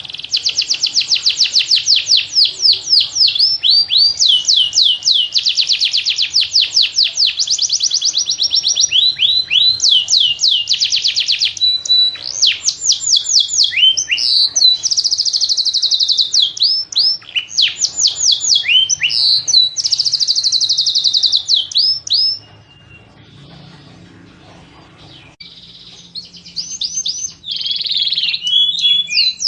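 Domestic canary singing: long, fast trills of rapidly repeated high notes, one trill after another with changes of note type. The song drops out for a few seconds about three-quarters of the way through, then starts again.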